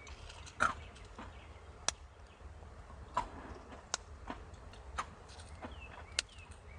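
Sparse, irregular sharp taps and clicks, roughly one a second, some with a short ring, over a low steady rumble. A few faint short chirps come near the end.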